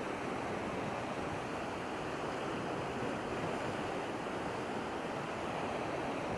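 Steady noise of wind and surf on the shore, with wind blowing on the microphone.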